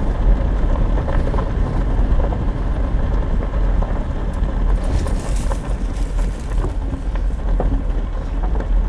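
Truck running, a steady low engine and road rumble, with a brief hiss about five seconds in.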